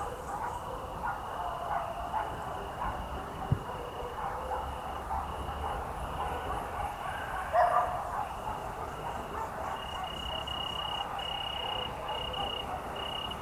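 Evening countryside ambience: a high, even insect trill that runs in repeated spells, loudest in the second half. A dog barks once in the distance about seven and a half seconds in, over a faint low rumble.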